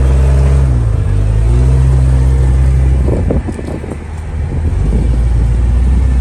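Motor vehicle engine running under way, its note dipping about a second in and then steadying. Around three seconds in the engine drops back and irregular knocks and rattles come through before the steady note returns.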